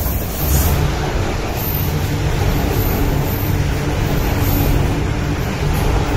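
MTR Kwun Tong line electric train running into the station platform, a steady loud rumble of the cars passing along the platform screen doors.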